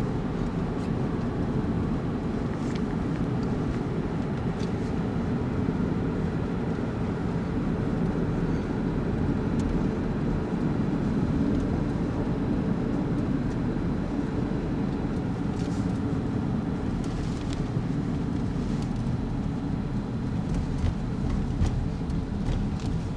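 Steady road and engine noise of a car driving along an expressway, a low, even rumble with no change in speed.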